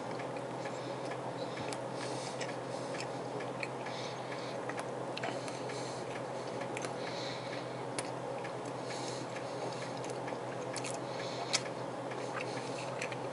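A person chewing a mouthful of summer sausage: irregular soft clicks and wet mouth smacks, close to the microphone, over a steady low hum.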